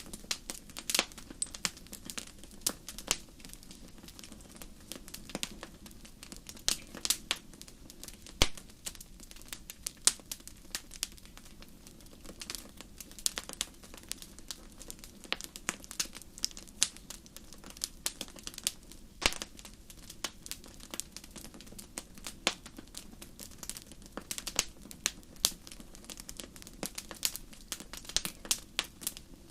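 Wood fire in a fireplace crackling: irregular sharp pops and snaps over a low steady burning rumble.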